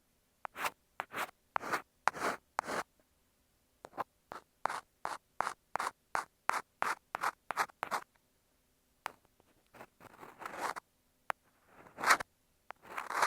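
Ear pick scraping across an earphone microphone in short, separate strokes: about two a second at first, then a quicker run of about three a second, then a pause and a few longer scrapes near the end.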